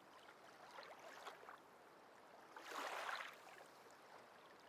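Faint rushing of a small river in spate, rising and falling, loudest about three seconds in.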